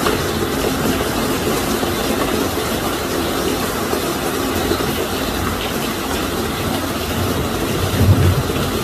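Steady loud rush of a storm's wind and heavy rain, with a low rumble underneath and one deeper thump about eight seconds in.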